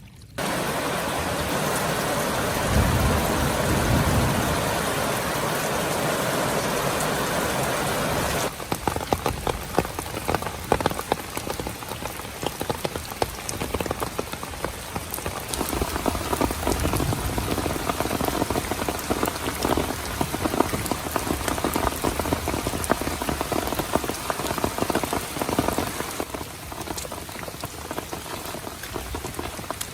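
Heavy rain falling steadily. It starts as a dense hiss, and from about eight seconds in turns to many separate drops striking close by. The sound changes abruptly at those points.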